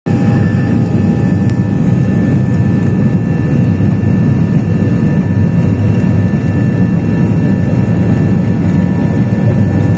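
Airplane engines running with a steady low roar, a few faint steady whining tones riding above it.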